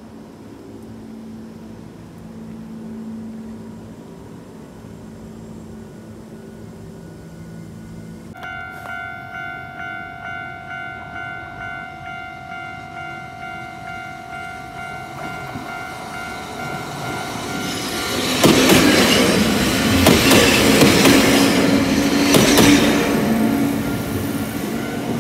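An electric train runs past with a low hum. After a cut, a railway level-crossing warning bell rings about twice a second while another electric train comes through, its wheels clattering loudly over the rail joints before the noise slowly fades.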